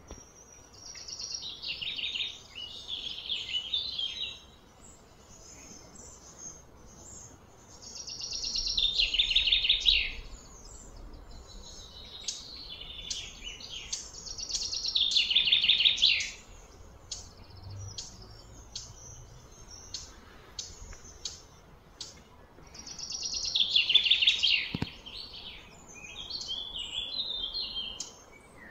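Birdsong: loud, high-pitched trilled phrases that fall in pitch, repeated every six to eight seconds. Each phrase swells over a second or two and breaks off sharply, with scattered short chirps in between.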